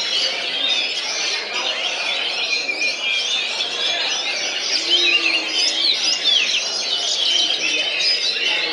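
Many caged songbirds singing at once in a bird-song contest: a dense, continuous tangle of overlapping chirps, trills and quick whistles.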